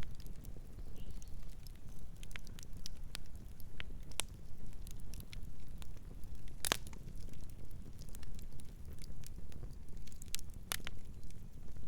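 Campfire crackling: scattered sharp pops and snaps over a low, steady rumble of burning wood, with one loud pop about two-thirds of the way through.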